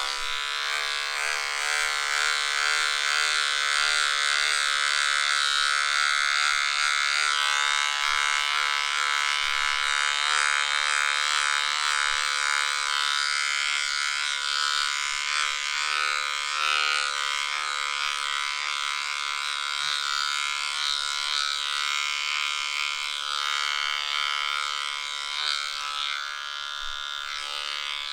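Electric dog grooming clippers running in a steady, even buzz while trimming fur from a dog's armpits. The clippers switch off right at the end.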